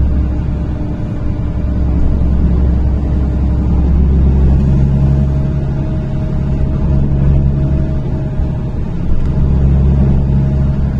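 A NefAZ-5299 city bus under way, heard from inside: steady engine and road rumble. The engine note grows stronger about four seconds in and again near the end as the bus pulls under load.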